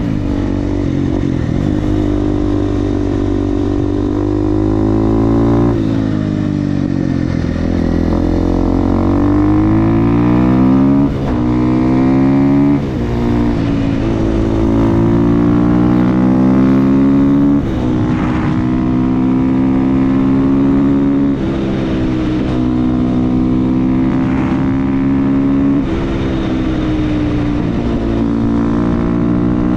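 Supermoto motorcycle with an FMF aftermarket exhaust accelerating hard: the engine note climbs steadily in pitch, then drops sharply at each gear change, over and over every few seconds.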